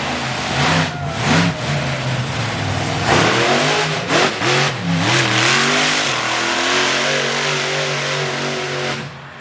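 Monster truck engine revving hard. Its pitch climbs and falls through a few throttle stabs, then holds a steady high note before dropping away near the end.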